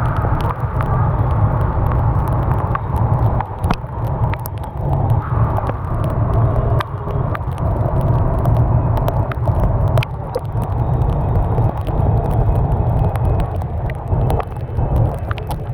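Rain falling, with many sharp drips and taps scattered throughout over a steady low rumble.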